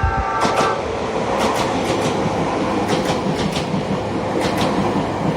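Nagano Electric Railway local train running, a steady rumble with its wheels clicking over rail joints in quick pairs and groups. A horn note cuts off under a second in.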